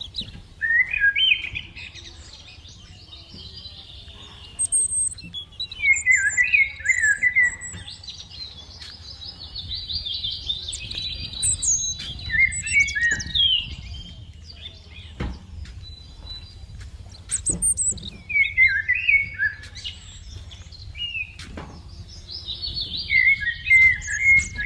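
Forest birds singing: bursts of quick, warbling, chirping phrases repeat every few seconds, over a steady low rumble and a few soft knocks.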